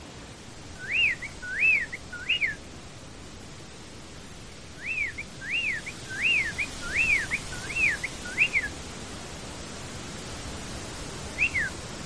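A songbird singing clear whistled notes, each rising then falling. There are three quick notes about a second in, a longer run of about seven in the middle, and one more near the end, over a steady background hiss.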